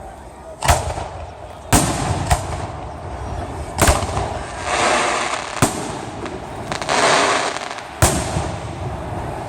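Aerial fireworks shells bursting: about six sharp bangs a second or so apart, with two longer hissing stretches between them.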